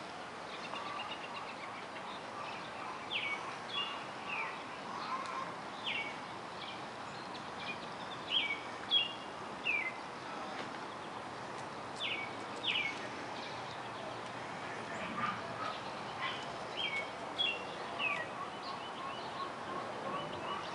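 Outdoor birds chirping: repeated short, sharp chirps that drop quickly in pitch, scattered throughout over a steady background hiss, with a run of evenly spaced lower notes near the end.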